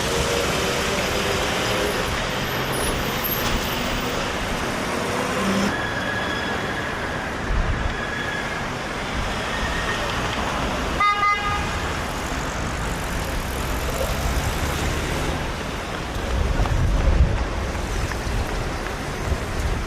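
City street traffic running steadily, with a thin high whine for a few seconds and a short horn toot about halfway through. A heavier low rumble of a passing vehicle builds near the end.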